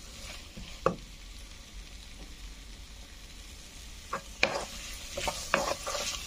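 Sliced onions, potato chunks and green chillies sizzling in hot oil in a non-stick pan while being stirred with a wooden spatula. The spatula knocks and scrapes against the pan once about a second in and several times near the end.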